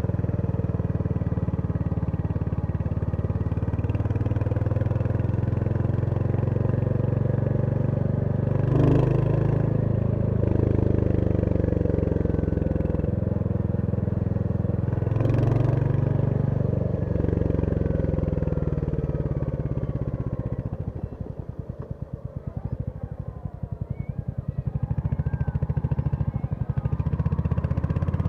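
Royal Enfield Hunter 350's single-cylinder engine under way, with pitch breaks about 9 and 15 seconds in followed by climbing revs, like gear changes. About 20 seconds in it drops to low revs, where the separate slow thumps of the single cylinder can be heard, then picks up again near the end.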